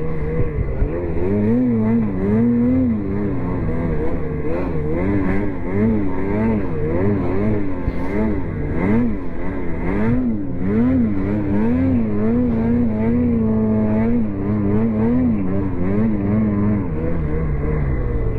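Ski-Doo 850 snowmobile's two-stroke engine revving up and down over and over, about once a second, as the throttle is worked. Near the end the revs hold steady for a couple of seconds, then drop back.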